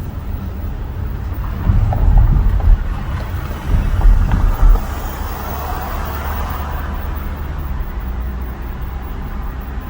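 Car driving, heard from inside the cabin: a steady low rumble of engine and road noise, with two spells of heavy low thumps about two and four seconds in, and a rising and fading rush of passing air or traffic around the middle.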